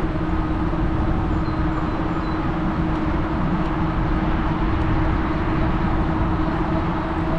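Riding noise from a fat-tire electric bike under way: wind rumble on the microphone and tyre noise, with a steady hum from the e-bike's motor.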